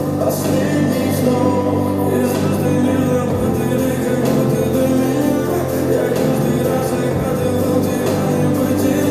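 Recorded pop song played back over a hall's sound system: steady beat under sustained instrumental tones, with singing at times.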